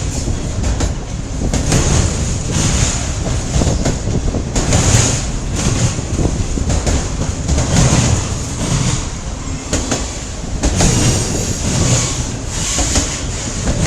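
A CN train's cars rolling past, loud and steady, with repeated clacks of wheels running over rail joints.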